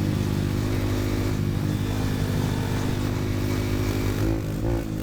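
Dirt bike engine running at a steady speed, with a brief change in pitch near the end.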